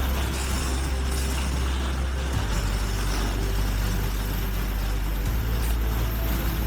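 Motorcycle engine running while riding, its low hum shifting in pitch about two and a half seconds in and again about five seconds in, under steady wind and road noise.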